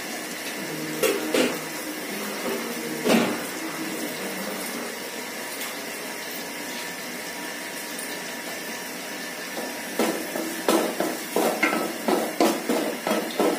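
Nuts and spices frying in ghee in an aluminium pot, a steady hiss, with a few knocks. About ten seconds in, a wooden spoon starts stirring, scraping the pot several times a second.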